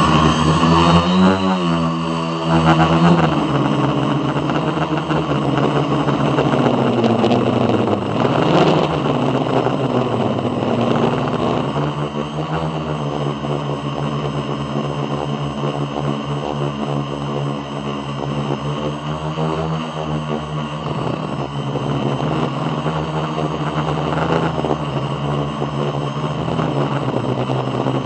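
An engine running steadily, its pitch wavering up and down at times.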